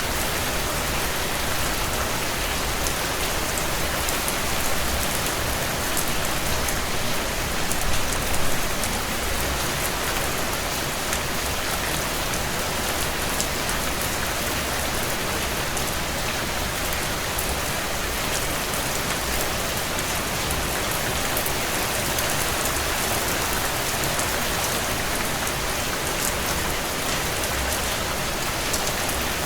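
Steady heavy rain on window glass, an even wash of noise, with scattered small sharp crackles from a wood fire in a stone fireplace. The rain swells briefly about eight seconds in.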